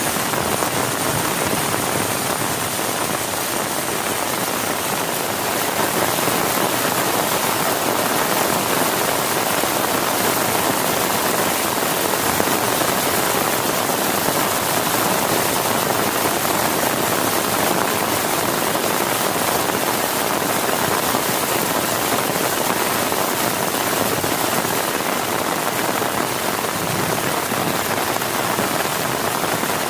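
Heavy rain pouring steadily, a dense, even hiss of drops with no let-up and no thunder.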